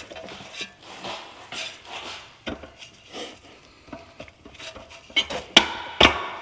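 Metal parts and hand tools clinking and scraping as they are handled, with two sharp metallic knocks about half a second apart near the end.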